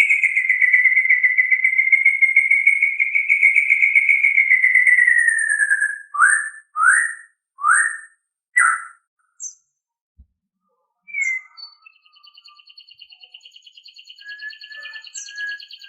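White-rumped shama (murai batu) singing: a long whistle that slowly falls in pitch, then four short rising notes. After a brief pause comes a softer, rapid trill with a few short notes over it.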